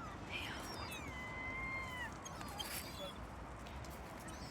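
Seagulls calling: a few short calls, then one long mewing call lasting about a second that drops in pitch at its end, over a steady background hiss.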